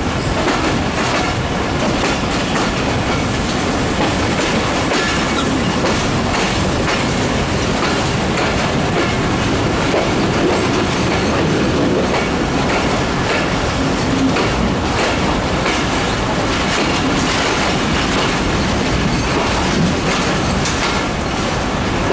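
Moving train heard from its own carriage, its wheels clattering over the rail joints in a clickety-clack over a steady loud rumble.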